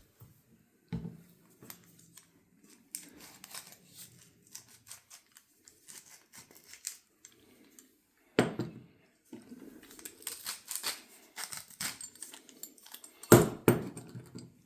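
Wooden hand-twisted salt and pepper mills with ceramic grinding mechanisms being turned to grind rock salt and peppercorns: a long run of small, quick crunching clicks, broken by two louder knocks about eight and thirteen seconds in.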